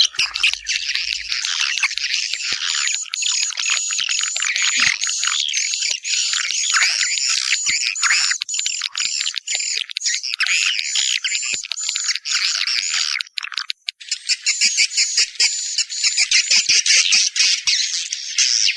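Swiftlet calling sound (suara panggil walet), a lure recording of dense, continuous swiftlet twittering of the kind played at swiftlet houses to draw the birds in. It breaks off briefly about fourteen seconds in, then carries on denser and buzzier.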